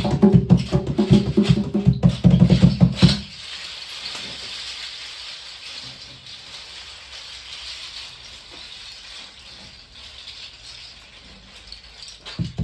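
Percussion played on recycled junk objects. It opens with about three seconds of fast, dense strokes, then gives way to a long, softer, even rattling hiss. The strokes start again just before the end.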